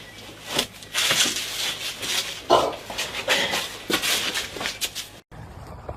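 An animal's noisy calls in a run of short, irregular bursts, cut off suddenly near the end.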